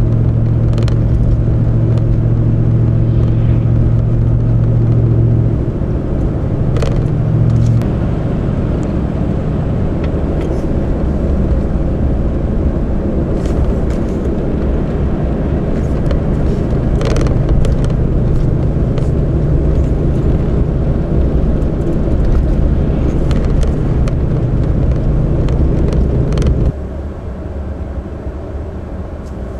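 Car running on the road, a steady low engine and road drone whose pitch steps down about five and a half seconds in and again near eight seconds. The sound drops abruptly to a quieter drone about three seconds before the end.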